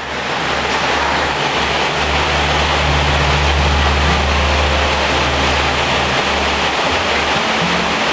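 Heavy rain on a metal roof: a loud, steady, even hiss of water, with low droning tones underneath that shift in pitch now and then.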